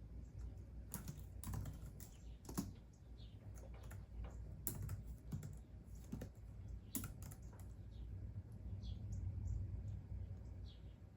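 Typing on a computer keyboard: irregular keystrokes in quick clusters, thinning out over the last few seconds.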